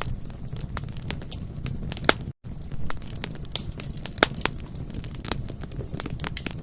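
Bonfire crackling: irregular sharp pops and snaps of burning wood over a steady low rumble of flames. The sound cuts out for an instant about two and a half seconds in.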